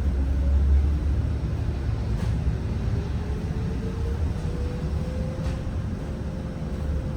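Zhongtong N12 bus running, heard from on board: a steady low rumble, with a whine that rises in pitch from about three seconds in as the bus gathers speed and then holds level.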